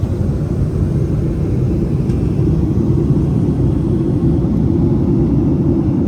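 Steady low rumble with no distinct tones or beats, like the running noise heard inside a moving vehicle.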